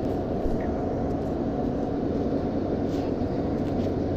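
Steady drone of engine and airflow noise inside an airliner's passenger cabin during descent, mostly low rumble with a steady low hum.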